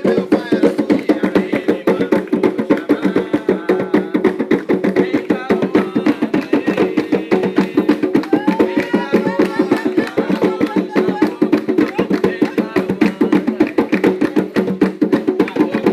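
Umbanda ceremonial drumming on hand drums (atabaques) in a fast, steady beat, with voices singing a chant over it.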